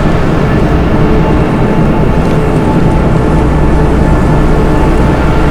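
A loud, steady low rumble with a few faint held tones above it, unchanging throughout.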